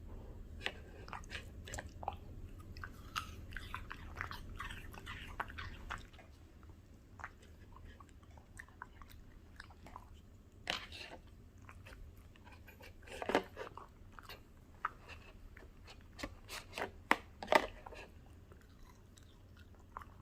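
A Bichon Frise chewing and crunching a piece of crunchy raw produce, in irregular bites. The crunches are quicker and softer at first, then sparser and louder in the second half.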